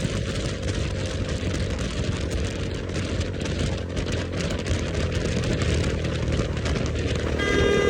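KTM motorcycle with an aftermarket exhaust running at a steady pace while being ridden, with wind noise over the microphone. Music comes in near the end.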